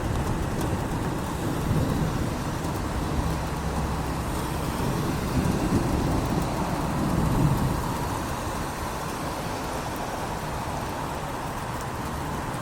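Steady rain falling, with a low rumble underneath that swells around the middle and then eases off.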